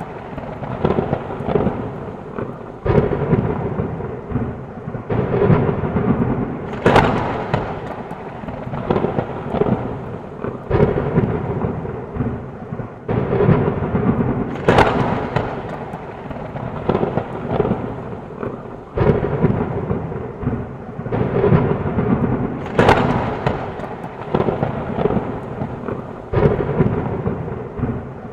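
Thunderstorm: steady rain under repeated rolling thunder rumbles, with a sharp crack of thunder about every eight seconds.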